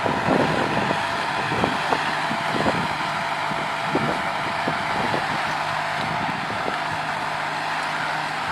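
Kubota 5501 tractor's diesel engine running steadily under load, with a steady hum and scattered light rattles and knocks in the first few seconds.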